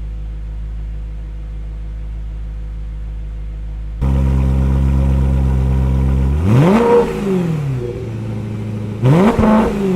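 BMW E92 M3's V8 idling through its Borla ATAK exhaust; about four seconds in the recording cuts to a louder idle with the venturis out, and the throttle is blipped twice, each rev rising sharply and falling back to idle, about two and a half seconds apart.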